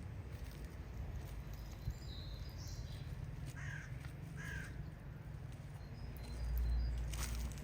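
A bird calls twice, a little under a second apart, over a steady low rumble, with faint higher chirps of small birds.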